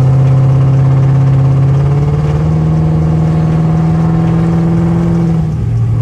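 Dodge Charger R/T's 5.7-litre Hemi V8 pulling under light throttle while driving, its drone rising slowly in pitch over the first couple of seconds, holding steady, then dropping a little near the end.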